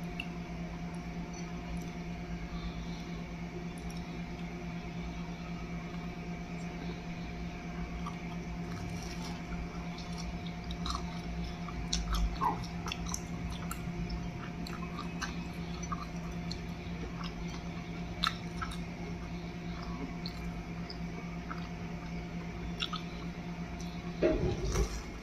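Close-miked chewing and small mouth clicks from eating a soft pan-fried scallion pancake, over a steady electrical hum. A few louder clicks come about halfway through, and a short louder burst comes near the end.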